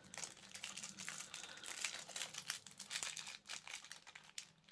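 Small plastic bags of diamond-painting drills crinkling and rustling as they are handled and sorted, in quick irregular crackles.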